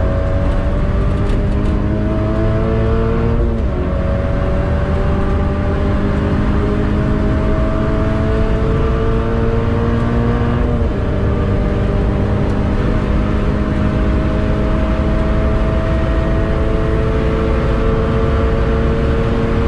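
Toyota GT86's naturally aspirated 2.0-litre flat-four, with a Tomei titanium cat-back exhaust, accelerating hard, heard from inside the cabin. The pitch climbs, drops at two manual upshifts about three and a half and eleven seconds in, and climbs more slowly in the higher gear.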